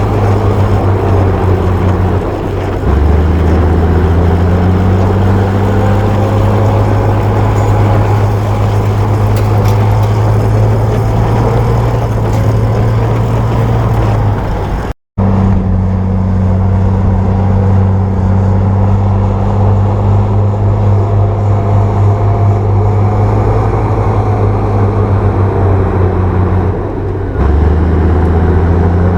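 Bulldozer's diesel engine running steadily at working revs, with a deep, even note. The note drops lower about three seconds in and again near the end. The sound breaks off for an instant at the halfway point.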